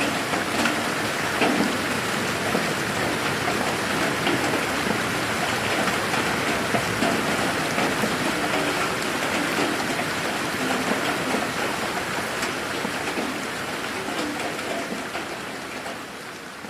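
Steady rain falling on a garden, a dense patter of drops with scattered closer drips. It fades out over the last few seconds.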